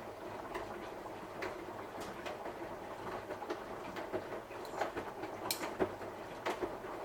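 Samsung washing machine running a cotton wash, its drum turning the load with a steady churning noise and irregular clicks and knocks from the tumbling laundry.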